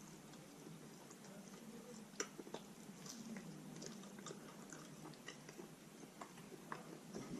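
Faint, close-up chewing of roast chicken, with wet mouth clicks and lip smacks scattered through, one sharper click about two seconds in.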